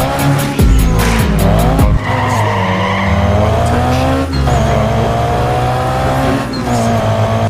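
Race-car engine revving and tyre-screech sound effects, the engine pitch rising in several runs, over background music with a steady bass.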